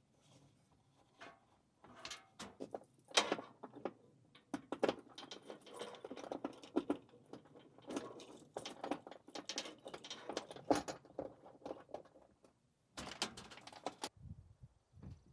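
Handling noise: a busy run of short clatters, knocks and jangles, like gear or keys being handled, with a low rumble near the end.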